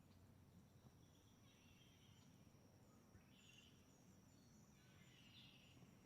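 Near silence: faint outdoor quiet with a steady thin high tone and three faint bird calls.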